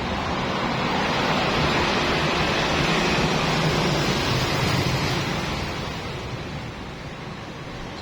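Pressure washer spraying water in a steady hiss over a low machine hum. The spray swells over the first few seconds and eases off from about six seconds in.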